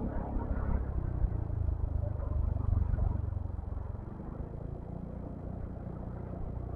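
Motor vehicle engines running in slow road traffic: a steady low hum that swells a little about two to three seconds in.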